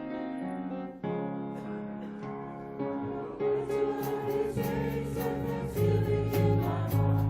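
Church worship music: sustained keyboard chords at first, then drums with a steady beat and a fuller bass join about three and a half seconds in, with voices singing.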